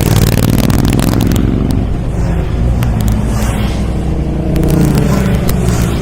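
MGA roadster's four-cylinder engine running on the road, its pitch wavering up and down, with scattered sharp crackles and scraping noises over it.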